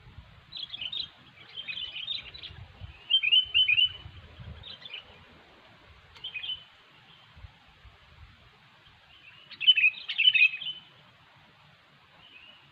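Sooty-headed bulbuls giving short chattering, chirping calls in several bursts. The loudest bursts come about three seconds in and again about ten seconds in.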